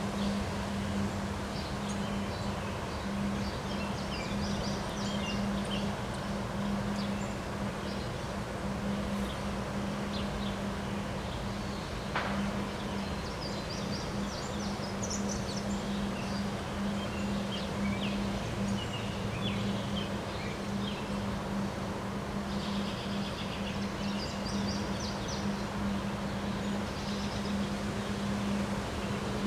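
Outdoor ambience: a steady rush of wind noise with small birds chirping on and off, over a steady low hum. A single short click sounds about twelve seconds in.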